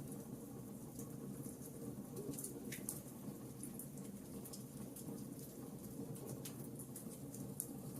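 Burning wood logs crackling: irregular sharp pops and snaps, a few close together, over a low steady rush of the fire.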